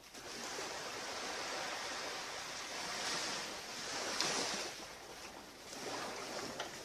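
Ocean surf washing onto a beach: a steady rushing that swells to its loudest about four seconds in, eases, and swells again near the end.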